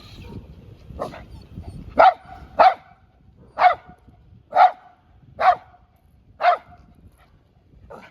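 A dog barking, about seven short barks roughly a second apart, the first one weaker. A low rumbling noise runs under the first two seconds.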